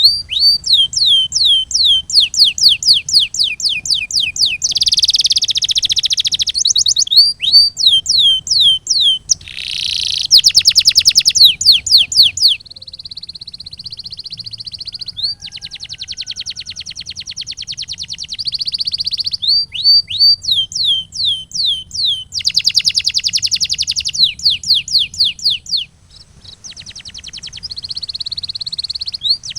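Domestic canary singing a long song of repeated phrases: runs of falling whistled notes at two or three a second alternate with fast trills and a lower, steadier rolling phrase, with only brief breaks.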